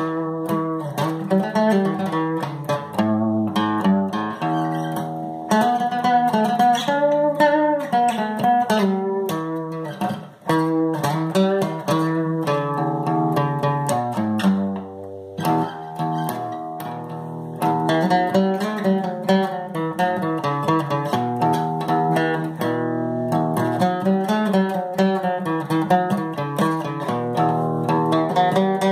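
Guitar playing an instrumental tune, plucked melody notes over chords, with brief breaks about ten and fifteen seconds in.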